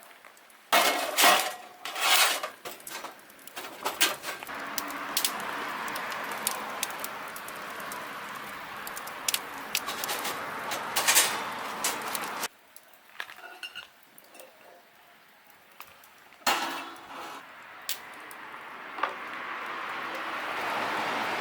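Metal clinking and clattering, a series of sharp knocks over a steady hiss, with a quieter stretch of a few faint clicks in the middle of the clip.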